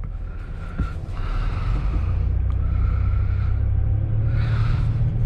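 A vehicle engine running as the vehicle moves off, a steady low rumble that builds about a second in and then holds.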